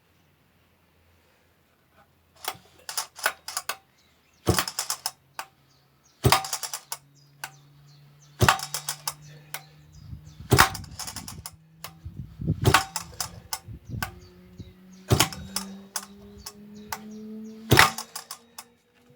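A Husqvarna 2100CD chainsaw is being pull-started by its recoil starter, on fast idle with the choke off. There are repeated rattling pulls about every two seconds as the engine turns over without starting.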